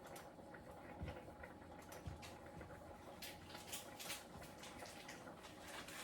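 Faint kitchen handling noises: two soft, dull knocks, then a quick run of light clicks and taps, as sticky pieces of dumpling dough are handled and moved into the pot.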